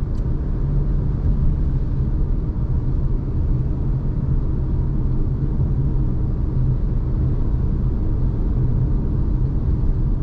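Steady low rumble of a car driving along a road, heard from inside the cabin: road and engine noise with no sudden events.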